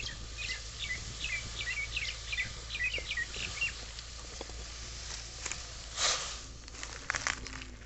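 A songbird singing a quick run of short, high chirping notes that stops about halfway through. A few scattered knocks and a brief scuff follow near the end.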